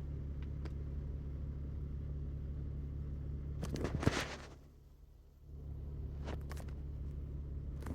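A steady low mechanical hum, of the kind an idling vehicle engine makes. A brief rustle comes about four seconds in, and the hum drops away for about a second just after it.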